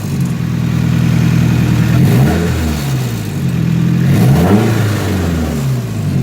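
Nissan SR20DET turbo four-cylinder idling and revved twice, about two and four seconds in, each time climbing and dropping back to idle. On letting off the gas it has a rattling zing from the turbo side, which the owner suspects comes from a loose or stuck-open wastegate flap.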